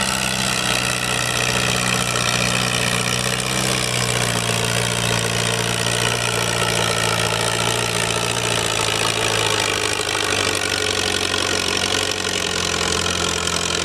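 Farmall Super C tractor's four-cylinder engine running steadily under load while pulling the sled, its pitch dropping a little about ten seconds in.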